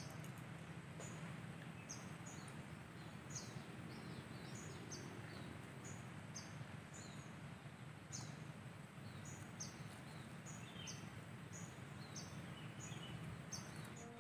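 Faint outdoor ambience with a bird repeating short, high, falling chirps, about two a second, over a steady low background rumble; a few lower chirps join in toward the end.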